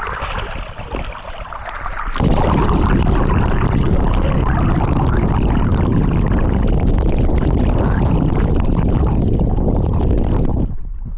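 Fast-moving rainwater runoff rushing and gushing, growing loud about two seconds in and dropping off near the end.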